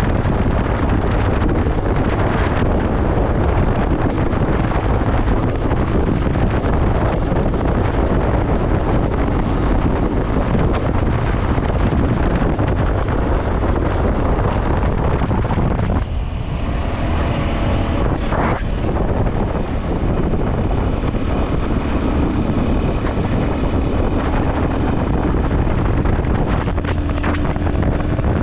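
Heavy wind buffeting the microphone of a camera on a moving motorcycle, with the ride's road and engine noise beneath it. About sixteen seconds in the wind eases briefly and a few steady tones come through.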